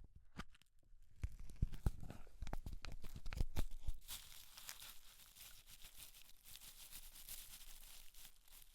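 Close-miked ASMR hair and scalp handling: a run of soft taps and thumps, then from about four seconds in a dense crackling, crinkly rustle.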